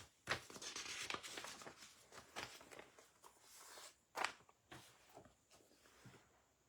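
Faint rustling and handling noise with scattered clicks, a sharper click about four seconds in, dying away near the end.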